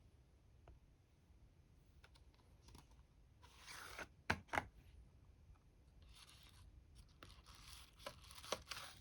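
Packaging being handled and opened: short bursts of rustling, with sharp clicks about four seconds in and again near the end.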